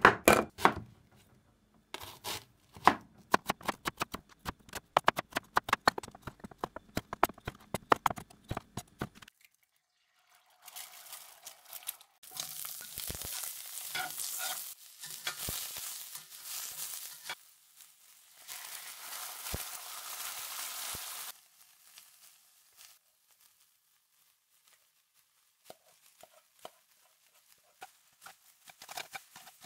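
For about the first nine seconds there is a fast run of sharp knocks. Then food sizzles in a hot cast-iron skillet in several long stretches: diced onion and egg frying. Near the end, fainter scraping clicks come as a spoon stirs rice in the pan.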